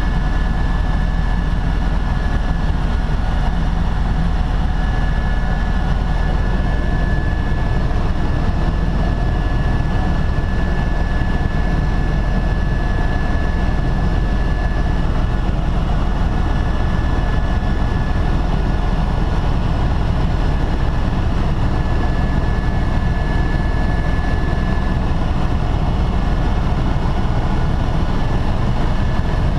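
Tour helicopter's engine and rotors running steadily in flight, a loud, even drone with a thin steady high whine over it.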